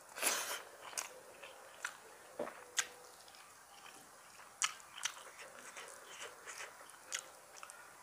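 Close-miked chewing of a handful of masala rice eaten by hand: a string of short wet mouth clicks and smacks, the loudest just after the start.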